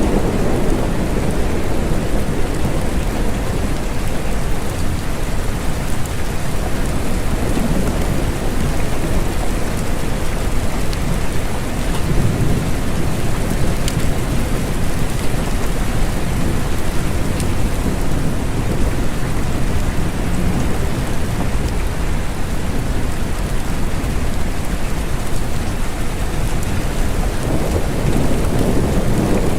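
Steady rain falling, with deep low rumbles of thunder swelling up a few times.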